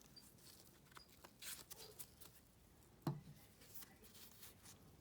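Near silence with faint handling noises: soft clicks and light rustling, and one slightly louder short knock about three seconds in, typical of a coin's presentation box and capsule being handled.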